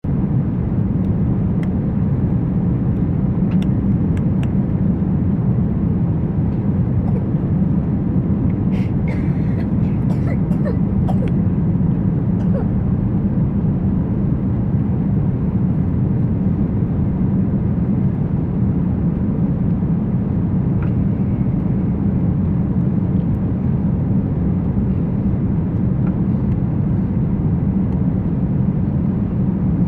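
Steady low roar inside the cabin of an Airbus A340-200 in flight, the noise of its four CFM56-5C engines and the airflow along the fuselage. A few faint clicks and rattles come between about 8 and 12 seconds in.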